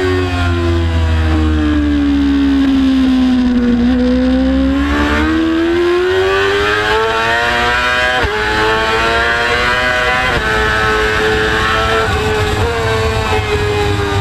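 Motorcycle engine heard onboard at speed: the revs fall for about four seconds as it slows, then climb again, with sharp gear changes about 8 and 10 seconds in. Wind rumble on the microphone is heavy in the first few seconds.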